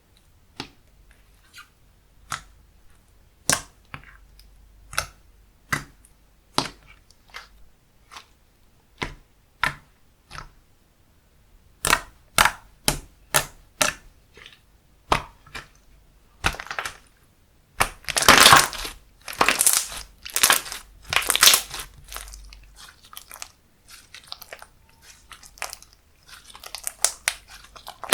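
Slime being played with by hand, making sharp clicking pops about once a second, then a dense stretch of crackling about two thirds of the way through.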